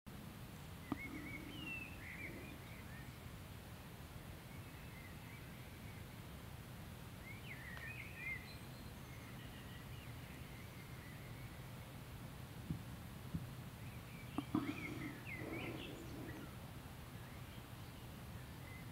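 Outdoor ambience: a steady low background noise, with birds chirping briefly a few times and a few faint clicks.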